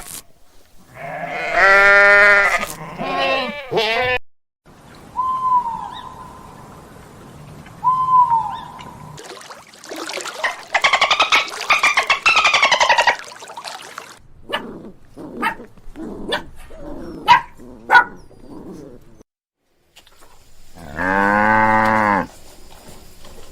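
A series of separate farm-animal calls, mostly bleats: a pitched bleat about a second in, two short chirps around six and eight seconds, a long trembling call in the middle, scattered clicks, and a loud drawn-out bleat near the end.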